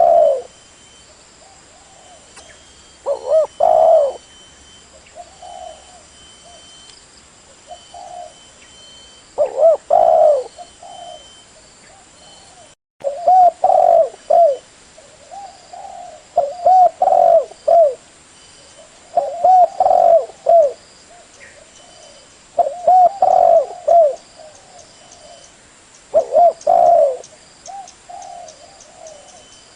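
Spotted dove cooing: loud, repeated cooing phrases that come every few seconds. There is a brief cut-out in the sound about 13 seconds in.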